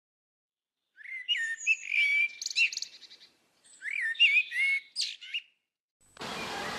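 A songbird singing two phrases of clear whistled notes that slide up and down, mixed with fast high twitters. Near the end a steady hiss sets in.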